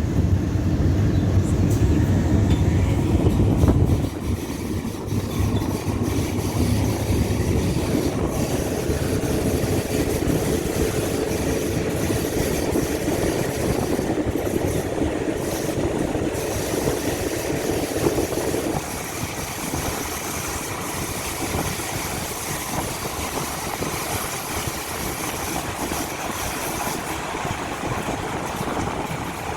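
Passenger train running on the rails: a steady rumble of the moving carriage, heaviest in the first four seconds, then lighter and easing off a little more past the middle.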